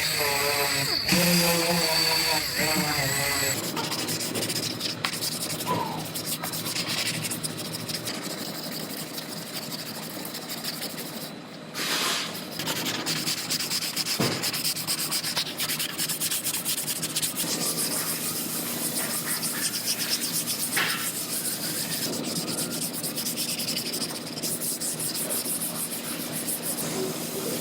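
Sanding on a car body panel: a steady rubbing noise, with a pitched tone over it that stops about three and a half seconds in.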